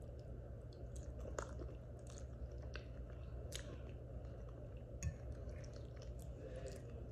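Close-up chewing of a mouthful of food, with soft wet mouth clicks and smacks scattered through, over a steady low hum.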